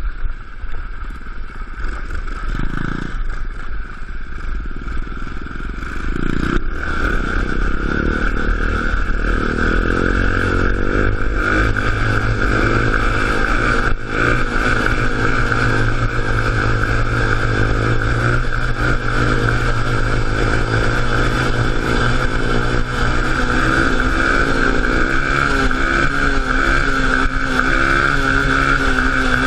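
Small engine of a mini off-road vehicle running and revving, its pitch rising and falling. It gets louder about six and a half seconds in.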